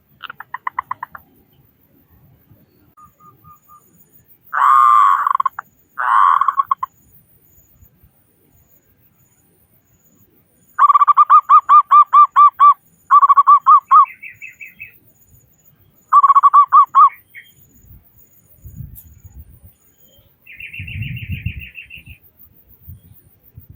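Zebra doves (perkutut) cooing: repeated phrases of rapid, soft pulsed notes, each a second or two long, loudest in the middle. A higher, quicker trill comes near the end.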